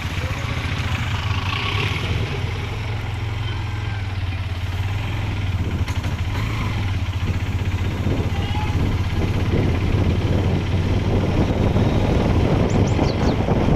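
Motorcycle engine running steadily while riding, with road and wind noise that grows louder toward the end.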